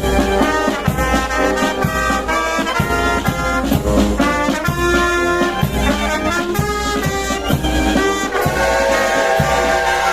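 Brass band music with a steady drum beat, the brass playing a melody that settles into long held notes near the end.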